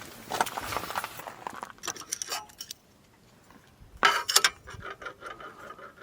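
Light clinks and clicks of small hard objects being handled, in two bunches with a pause of about a second in between.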